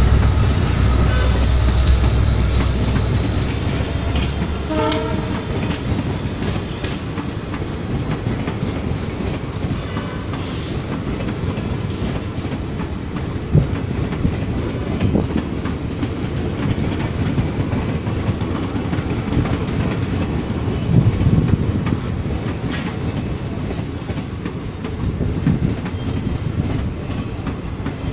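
Passenger train coaches rolling past close by: a steady rumble with wheels clattering over the rail joints, heaviest at the start and then settling to an even level. A brief horn note sounds about five seconds in.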